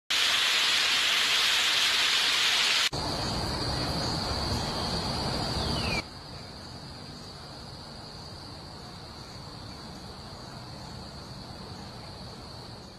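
A steady hissing noise that changes abruptly twice: a loud, bright hiss, then about three seconds in a fuller, rougher noise, then from about six seconds a quieter hiss, with a faint steady high tone under it after the first change.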